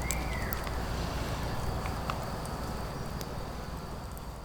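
Outdoor woodland ambience: a steady low rumble with scattered faint crackles and clicks, and a short whistled bird-like note near the start, fading out toward the end.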